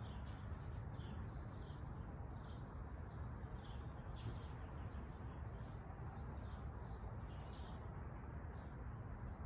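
Small birds chirping, many short high chirps scattered irregularly, over a steady low outdoor rumble.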